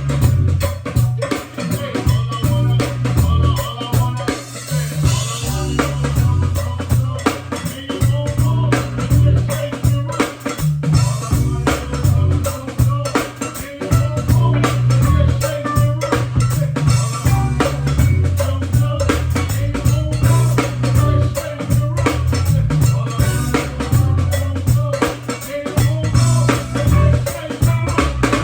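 Band music driven by a drum kit and busy percussion, over a heavy, pulsing bass line.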